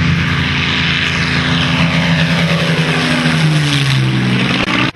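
Piston-engined propeller warbird flying past, its engine note steady and then falling in pitch as it goes by. The sound cuts off suddenly near the end.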